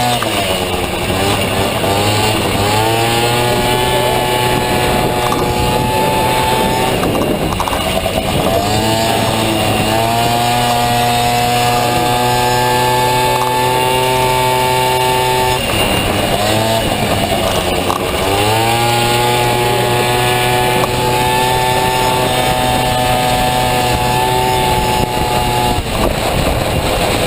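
Small two-stroke Honda Dio scooter engine in a Honda Motocompo running hard. The revs drop off briefly about every eight seconds, then rise again and hold at one steady high pitch.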